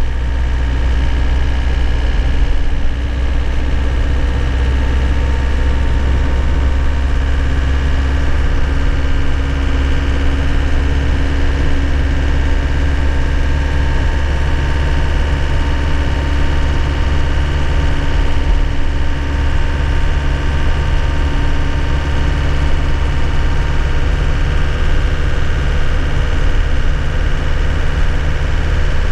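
2001 Nissan Cabstar light truck's engine running at a steady pace, a constant low drone heard from inside the cab.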